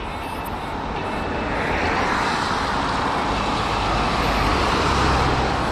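Road traffic passing on a wet street: tyre hiss swelling over the first couple of seconds and then holding steady, with a low engine rumble underneath.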